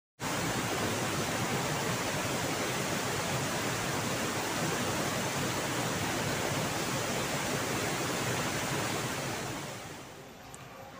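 Steady rush of a waterfall and fast-flowing river water, fading out about nine seconds in.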